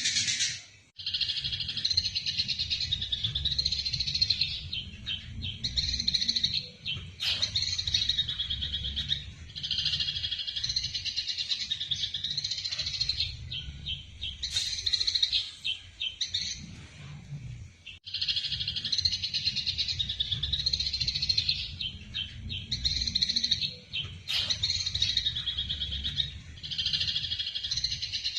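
Eurasian tree sparrows chattering in dense, rapid runs of harsh chirps: the agitated fighting calls of the species. The runs last a few seconds each with brief breaks, over a steady low rumble.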